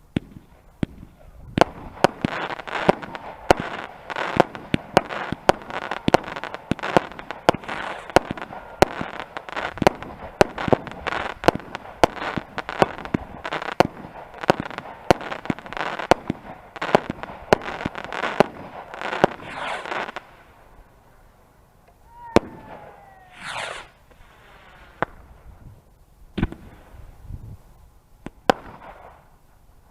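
Fireworks going off: a rapid barrage of sharp bangs, several a second, that stops about two-thirds of the way through. After it come a whistling firework rising steeply in pitch and a few scattered single bangs.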